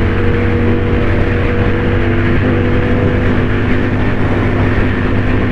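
Motorcycle engine running steadily at cruising speed, mixed with wind and road rumble; its note shifts slightly about two and a half seconds in.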